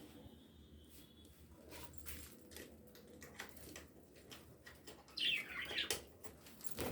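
Caged lovebirds: faint scattered clicks and wing flutters, then about five seconds in one short, harsh call that falls in pitch, with a few quieter chirps after it.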